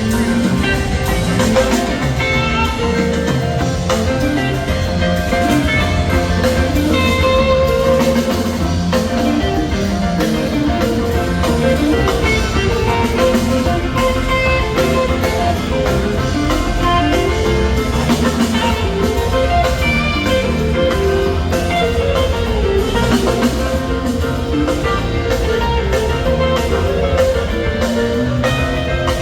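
Rock band playing an instrumental jam live, with electric guitar lead lines over bass and drum kit.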